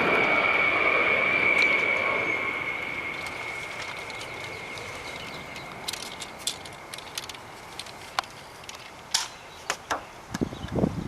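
A droning noise with a steady high whine fades away over the first three seconds. Then come scattered sharp clicks and snaps, and a few dull thumps near the end.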